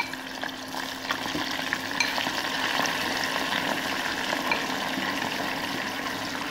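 Cornflour-coated sweet corn kernels sizzling and crackling in hot oil as they are spooned into a steel pot for deep-frying. The frying gets louder about a second in as more corn goes in, with scattered sharp crackles.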